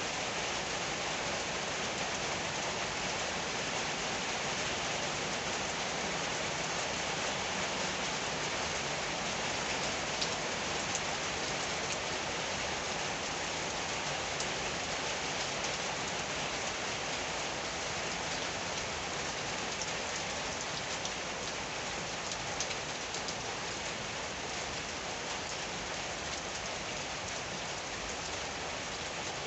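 Rain falling steadily: an even hiss of drops, with a few single drops ticking out now and then.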